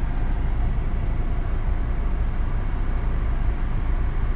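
Car driving: a steady low road and engine rumble.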